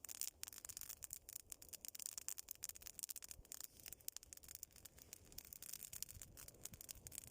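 Bonfire crackling faintly: many small irregular pops and snaps over a soft hiss as twigs burn.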